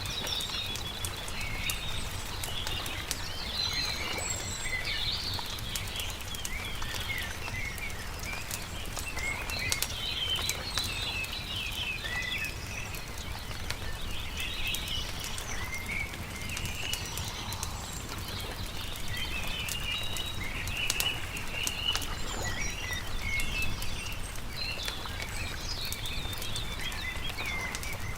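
Small songbirds chirping and twittering continuously over a wood campfire crackling with frequent sharp pops.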